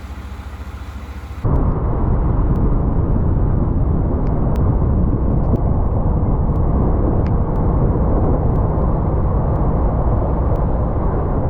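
A truck's diesel engine idling with an even low pulse. About a second and a half in there is a sudden cut to a louder, steady low rumble of a truck under way.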